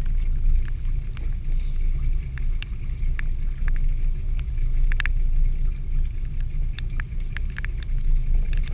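Steady low rumble on board a small fishing boat at sea, with scattered irregular sharp ticks of rain hitting the boat.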